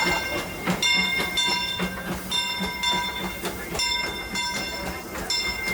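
Steam locomotive bell ringing over and over, one clang every half second or so, each note ringing on, over the low rumble of the standing train; rung as the train gets ready to depart.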